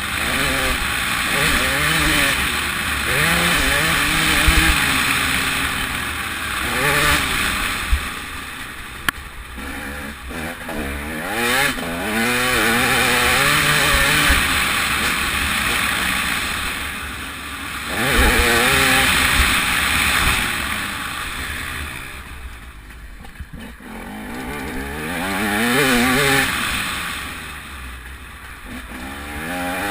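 TM 300 two-stroke motocross bike being ridden hard, its engine revving up through the gears and dropping away as the throttle is shut, over and over, with a steady rushing noise of wind on the microphone. A few sharp knocks come about ten seconds in.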